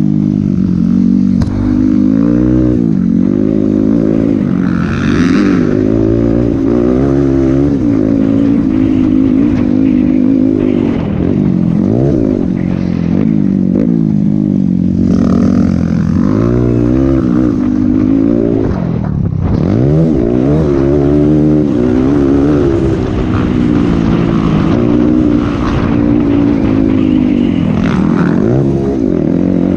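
Motocross dirt bike engine being ridden hard, its pitch climbing and dropping over and over as the throttle opens and closes and the gears change, with deep drops near the middle and about two-thirds of the way through.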